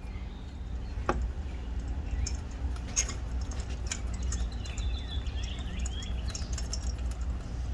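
Outdoor background with a steady low rumble and a bird chirping about midway, over a few light metallic clicks from a socket extension being turned by hand while a spark plug is threaded in.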